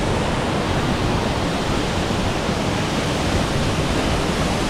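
Waterfall pouring into a swimming hole: a steady, unbroken rush of falling water.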